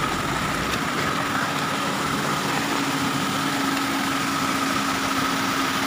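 A car engine idling steadily over an even hiss.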